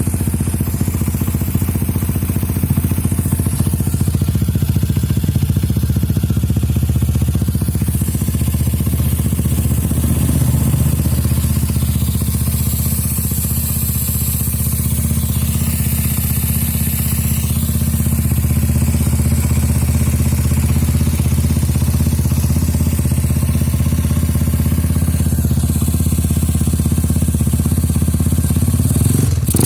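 Motorcycle engine idling steadily through a Kawahara aftermarket racing exhaust, with a deep, even exhaust note.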